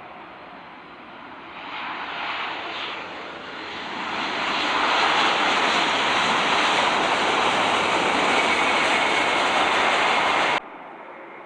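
Airbus A320-232 jet airliner's IAE V2500 turbofans roaring, growing louder over the first few seconds and holding a steady loud roar before cutting off abruptly near the end.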